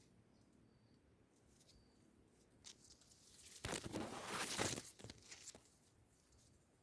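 A faint, quiet background broken about three and a half seconds in by a loud burst of rustling noise lasting just over a second.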